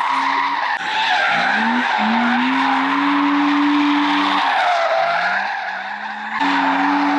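Drift car's engine held at high revs while its tyres squeal in a long slide, the engine note dropping and climbing back several times.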